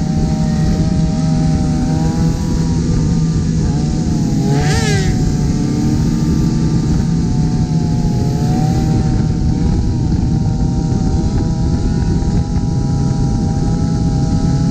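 Motorcycle engines running at highway speed under a steady rush of wind and road noise. About five seconds in there is a brief high-pitched rising sound.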